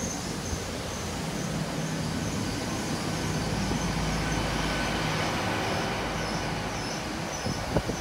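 Great Western Railway Class 800 intercity trains running through the station: a steady rumble of wheels on rail with a low hum, growing louder to about the middle and easing off slightly near the end.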